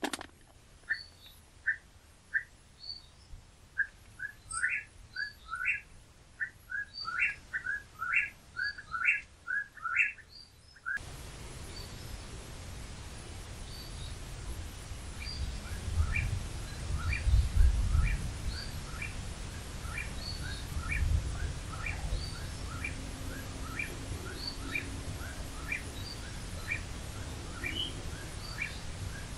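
A bird calling a short rising phrase over and over, about once a second, at dusk. From about a third of the way in, wind rumbles on the microphone, gusting strongest around the middle.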